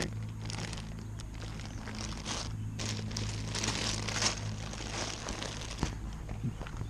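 Plastic crinkling and rustling in irregular bursts as bags are handled, over a steady low hum.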